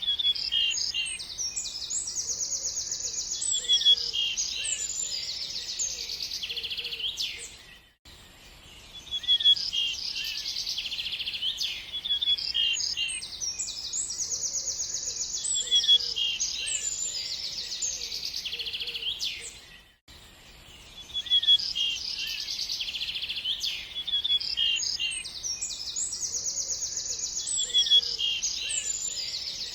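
Several birds chirping and trilling, high-pitched and busy. The same passage of birdsong repeats about every twelve seconds, with a short dip in loudness between repeats, as in a looped recording.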